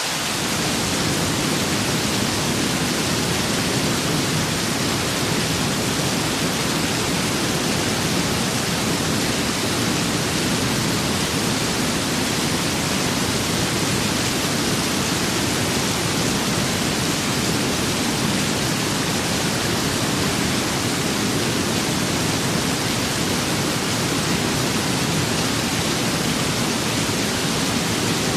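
Rain and wind ambience: a dense, even hiss that holds steady throughout, with no single drops or gusts standing out.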